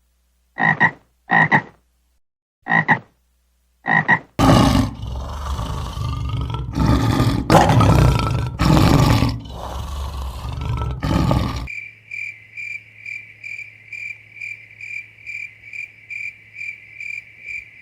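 A string of animal calls: a few short pitched calls, then a stretch of loud, rough calls, then a high pulsed trilling call repeating about two and a half times a second.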